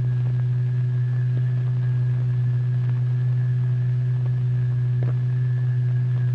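A steady, loud low tone with no change in pitch, the vibration signal driving the fluid into eddies in a cymatics experiment, over light hiss with a few faint clicks.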